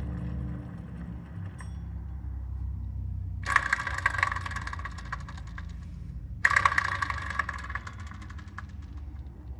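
2013 Subaru BRZ's flat-four engine idling, with a high-pitched, gritty whine and rattle coming in twice for about two seconds each: the noise of a bad accessory-belt pulley.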